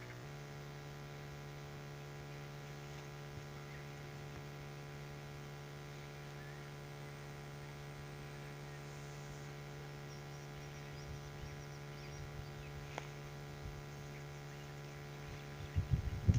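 A steady low hum with many even overtones, stepping up slightly in pitch just after the start. Faint high chirps come in about two-thirds of the way through, and loud low thumps start just before the end.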